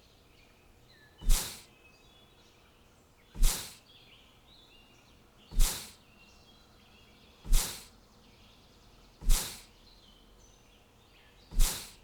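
A short, sharp swish-like sound effect repeating six times, about every two seconds, over faint bird chirps.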